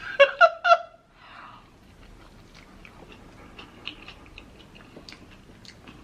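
Three short, loud pitched vocal sounds in the first second, then the faint, scattered wet clicks of someone chewing food close to the microphone.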